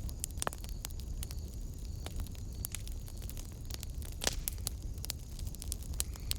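Wood fire crackling in a fireplace: irregular pops and snaps over a steady low rumble, with one louder pop about four seconds in.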